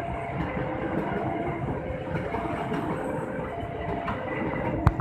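Coaches of a long passenger train rolling past at speed: a steady rumble with wheels clacking over the rail joints, and one sharp knock near the end.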